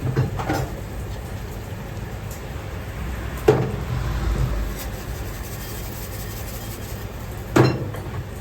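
Busy ramen shop kitchen: a steady background rush of kitchen noise, broken by three sharp knocks and clatters of cookware, one at the start, one about three and a half seconds in and the loudest near the end.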